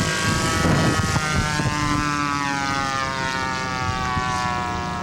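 Propeller engine of a radio-controlled scale model airplane droning on its landing approach, its pitch slowly falling.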